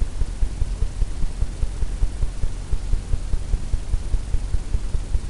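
A steady low hum that pulses unevenly several times a second, with nothing else clearly heard over it.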